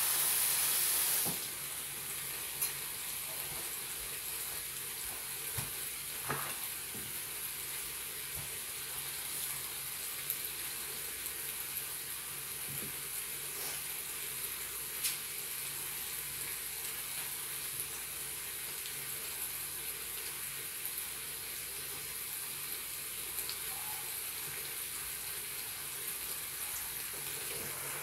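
Bacon-wrapped chicken sizzling inside a closed rotating waffle maker: a steady frying hiss with a few small pops of fat, louder for the first second or so.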